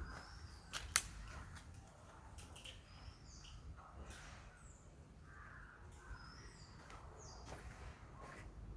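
Birds chirping in short, high calls over a low steady background rumble, with a sharp click about a second in.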